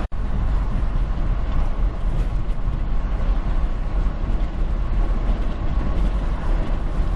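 Steady rumble of a semi-truck's engine and road noise heard from inside the cab while driving on the highway. The sound drops out for an instant right at the start.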